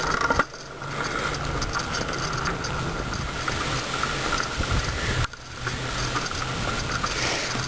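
Bicycle freewheel ratchet ticking rapidly as the rear wheel turns without pedalling.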